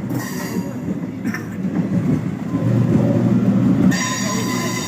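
MEMU electric multiple-unit train running past with a dense low rumble, growing louder a little after halfway. A high-pitched tone sounds briefly at the start and again through the last second.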